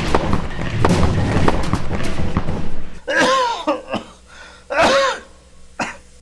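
A busy passage of music with knocks and thuds, then two short pitched vocal sounds, each rising and falling in pitch, about a second and a half apart.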